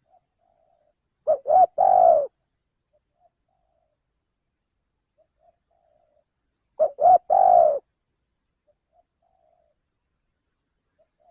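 Male spotted dove (tekukur) cooing: a three-note phrase, two short coos then a longer one, heard twice about five and a half seconds apart, with faint soft notes between, the repeated call used to lure wild doves.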